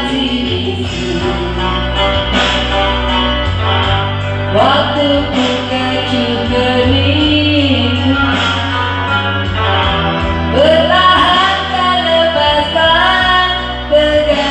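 A song: a voice singing over instrumental accompaniment with sustained low bass notes.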